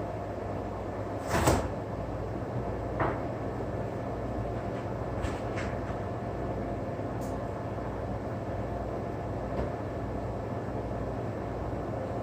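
A sharp bang about a second and a half in and a lighter knock near three seconds, then a few faint clicks, over a steady low hum.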